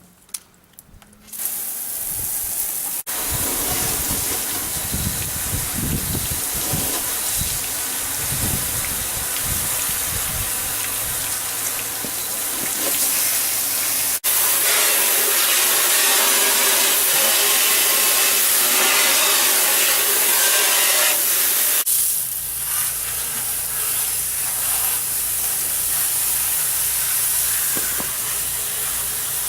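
Water spraying steadily from a PVC undercarriage washer run off a garden hose: a loud hiss that starts about a second in and changes character abruptly a few times.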